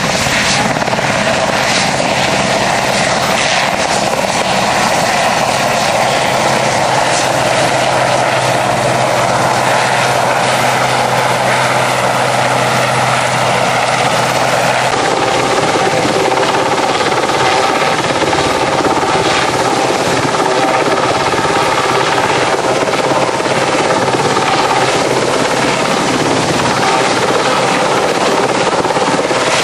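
RAF Westland Sea King rescue helicopter, its rotors and twin turbine engines running loud and steady nearby. About halfway through, a steady low hum drops out and the sound shifts higher.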